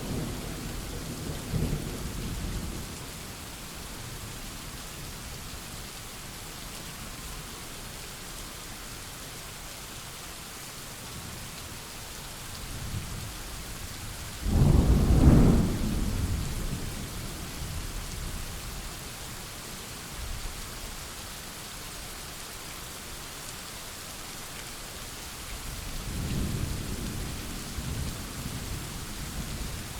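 Thunderstorm: steady rain with thunder. A rumble fades out at the start, a loud thunderclap breaks suddenly about halfway through and rolls away over a couple of seconds, and a softer rumble follows near the end.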